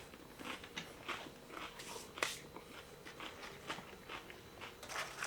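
A person chewing food close to the microphone: soft, irregular wet smacks and crunches, with one sharper click about two seconds in.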